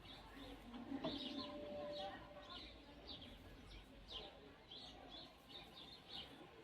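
Small bird chirping: short high chirps repeated several times a second, faint under low background noise.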